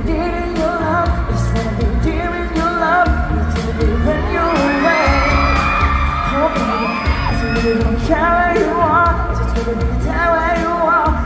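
Loud pop song with a singer over a steady drum and bass beat. Around the middle a high line slides up and holds before the main vocal melody returns.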